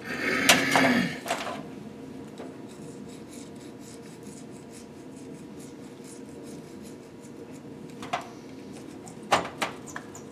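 A tool scraping and picking old deposits out of a piston's ring and oiling grooves: a louder burst of scraping at the start, then steady light scraping, with a few sharp clicks near the end.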